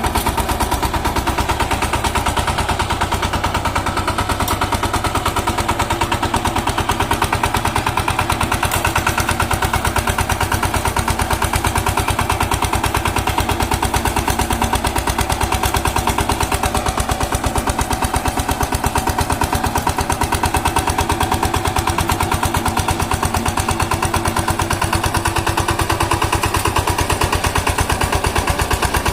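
Power tiller engine running steadily with a rapid, even chugging beat.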